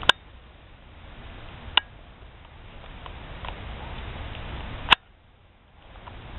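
Cats eating, with faint chewing ticks over steady outdoor background noise, broken by three sharp clicks.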